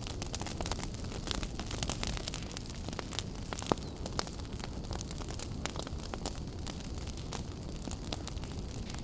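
Wood fire burning in a fireplace: a steady low rumble of flame with frequent sharp crackles and pops, one louder pop a little before the middle.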